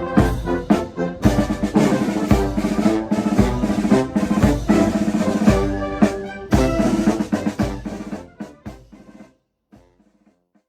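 Military band playing, brass over snare and bass drum strokes; the music dies away and stops about nine seconds in.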